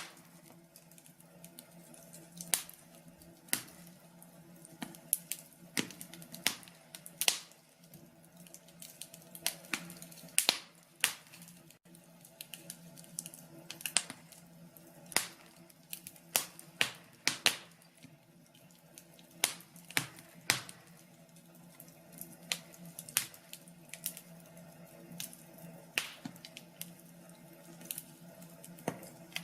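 Wood fire in a fireplace crackling: sharp, irregular pops and snaps, sometimes in quick clusters, over a faint steady low hum.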